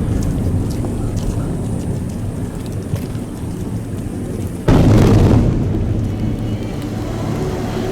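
Large aerial fireworks shells bursting: a continuous low rumble of booms with faint crackling, and a sudden loud burst a little past halfway that then dies away.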